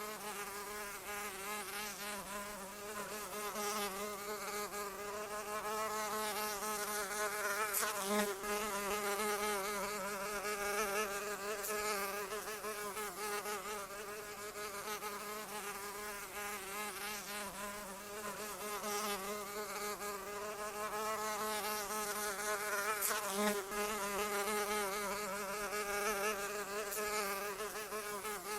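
A flying insect's wings buzzing continuously, the pitch wavering up and down as it flies, with a faint tick twice.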